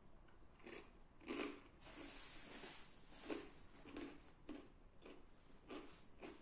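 Close-miked chewing of garlic naan pizza with crisp, crunchy edges: soft, irregular chews roughly every half second.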